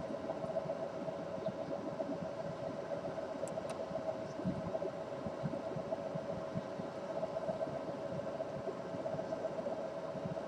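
Steady mechanical hum over a rough, noisy background rumble, with two brief sharp ticks about three and a half seconds in.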